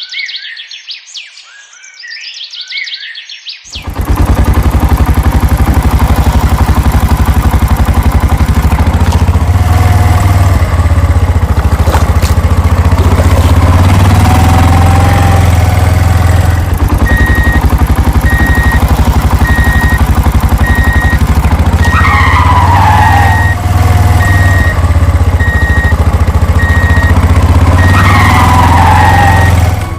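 Birds chirping, then about four seconds in a loud, steady cartoon engine sound effect for the tractor cuts in and keeps running, with two falling sweeps near the end.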